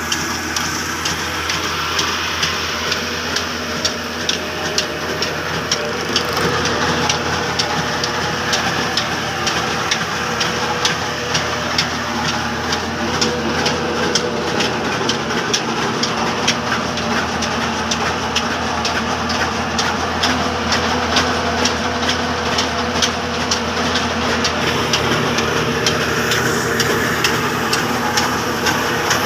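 Old Hornsby-type black diesel engine running steadily under load while driving a mini rice mill, with a regular run of sharp knocks over a steady low hum.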